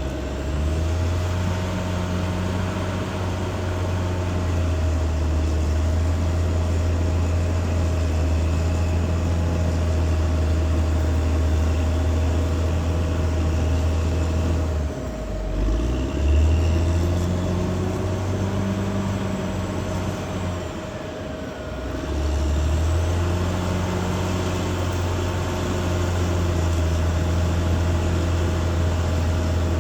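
Caterpillar D6R XL bulldozer's diesel engine running steadily under load, with a constant whine above the low rumble. The engine note drops off briefly about 15 seconds in and again about 21 seconds in before picking back up.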